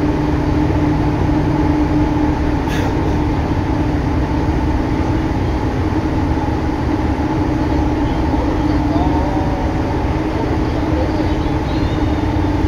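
Tobu 9000 series electric train running at a steady pace, heard from inside the car: a continuous rumble of wheels on rail with a constant low hum.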